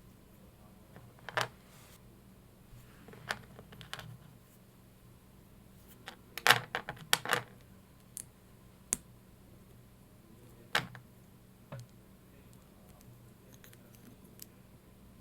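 Scattered sharp small clicks and rattles, about a dozen in all, with a quick cluster about six and a half to seven and a half seconds in.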